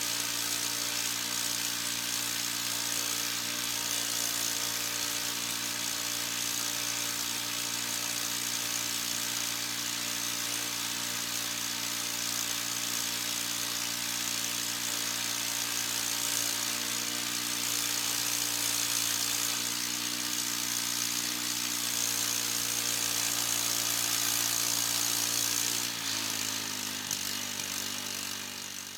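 Harbor Freight portable band sawmill's gasoline engine running at steady speed with a strong high hiss over it, typical of the band blade running through a log. About 26 seconds in, the engine note drops slightly.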